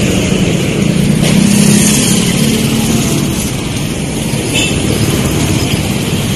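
Motorcycle engine running steadily under way, a continuous low hum with a steady hiss over it.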